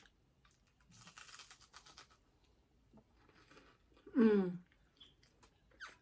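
Someone eating mini churros: a crunchy, rustling crackle lasting about a second, then a short voiced "mmm" falling in pitch about four seconds in.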